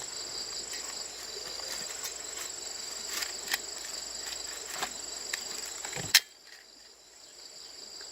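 Insects chirping: a steady high whine with a short trill repeating about every half second. Scattered light clicks and knocks come through it, with a sharper knock about six seconds in, after which the lower background noise suddenly drops away.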